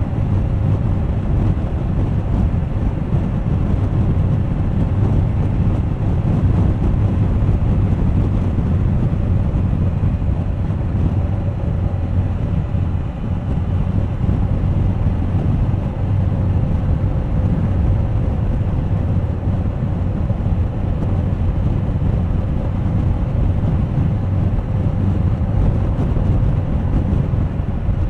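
Steady wind rush on the microphone over a Suzuki GSX1250FA's inline-four engine running at an even cruise, with no revving or gear changes.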